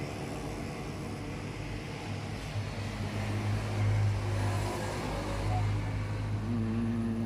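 A motor running steadily with a low hum, louder from about two and a half seconds in; a higher steady tone joins near the end.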